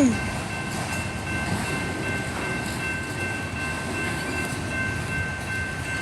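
Train rolling past a road crossing, its wheels and cars making a steady rumbling noise, with a thin steady high-pitched tone held throughout.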